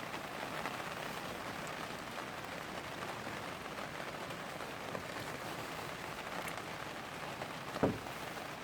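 Steady patter of rain on the polytunnel's plastic cover, with a single thump near the end.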